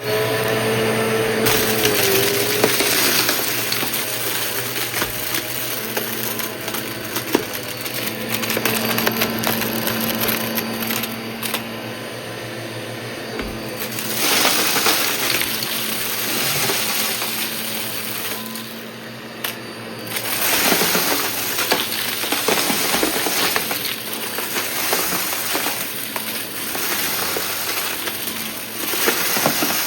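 Vacuum cleaner running, its noise rising and falling as it moves, with scattered crackles of debris being picked up.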